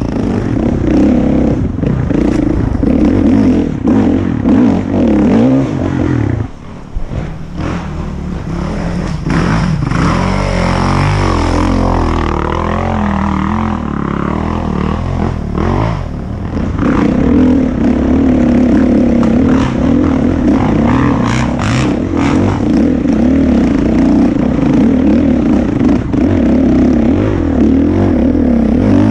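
450cc four-stroke single-cylinder dirt bike engine running loud while riding a trail, the throttle opening and closing so the pitch rises and falls. The revs drop briefly about six seconds in and stay lower for several seconds before climbing again, with clatter from the bike over the terrain.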